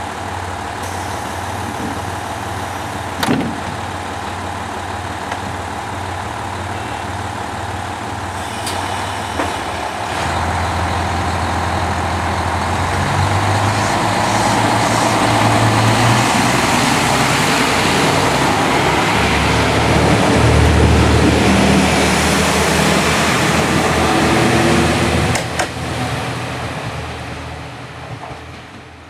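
KiHa 185 series diesel railcar running its engines, first at a steady idle, then revving up about a third of the way in as the train pulls away, growing louder before fading off near the end. A few short sharp clunks are heard, the first about three seconds in.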